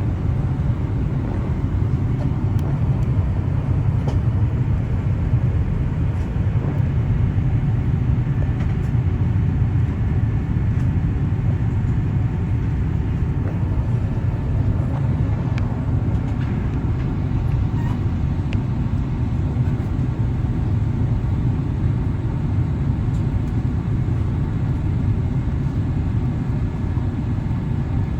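Steady low rumble inside the cabin of an Airbus A350-1000 in flight, from its Rolls-Royce Trent XWB engines and the air rushing past the fuselage, during the descent towards landing.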